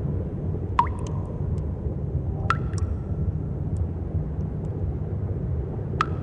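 Water drops falling into a pool in a cave: three clear plinks, each with a short ringing tone, about a second in, midway and near the end. Underneath runs a steady low rumble.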